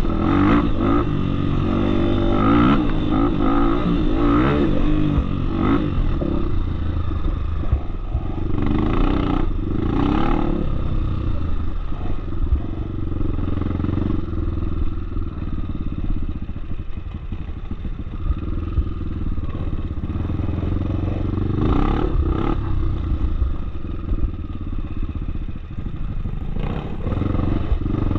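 Off-road motorcycle engine running on a trail, its pitch rising and falling as the throttle is worked, with a few knocks from the bike over rough ground.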